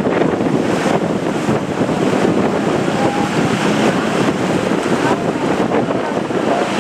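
Strong wind buffeting the microphone over the steady rush of heavy sea surf breaking.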